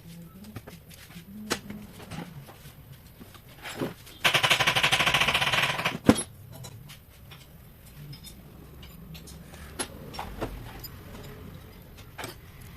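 A power tool's rapid hammering rattle for about two seconds, starting about four seconds in and ending with a sharp click, amid scattered light clinks and taps of work on the engine.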